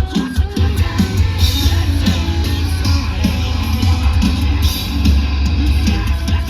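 A live heavy rock band playing loudly: guitars, heavy bass and drums, with a vocalist yelling over them.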